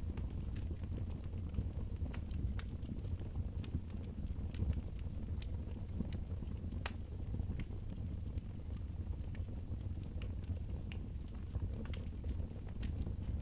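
Wood fire in a fireplace crackling, with irregular sharp pops over a low steady rumble; the loudest pop comes about seven seconds in.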